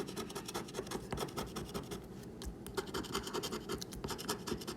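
Scratch-off lottery ticket being scratched with a coin or scraper: rapid, continuous back-and-forth scraping strokes rubbing the latex coating off the card.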